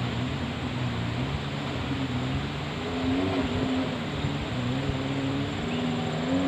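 Off-road jeep engine running under way, its pitch rising and falling with the throttle, over a steady rush of noise.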